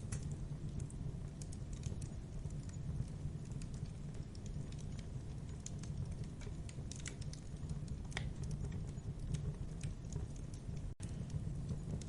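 Wood fire burning in a fireplace: a steady low rumble with irregular sharp crackles and pops. The sound cuts out briefly near the end.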